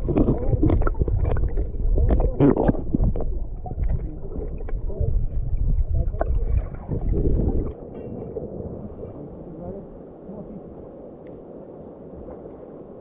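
Water sloshing and splashing close by, with a heavy low rumble. The rumble drops away suddenly about eight seconds in, leaving the steady rush of river water.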